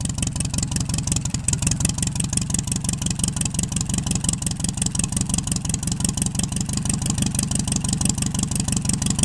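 Bristol 20 crawler tractor's petrol engine running steadily with an even beat, started up again after ten years standing.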